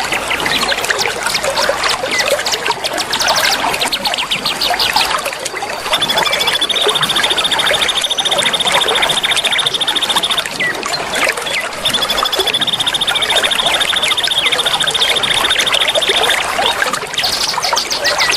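A chorus of songbirds chirping densely over steadily running water, with fast rattling note series and, twice, a long even trill held for about four seconds.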